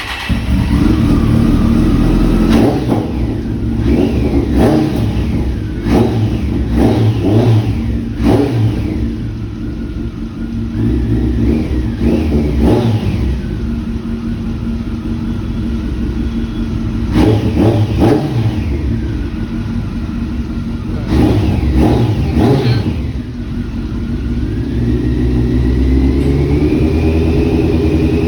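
Kawasaki ZX-14R's inline-four engine running on a cold start, blipped through a string of quick revs that each rise and fall back. Near the end it settles into a steady idle that slowly climbs in pitch.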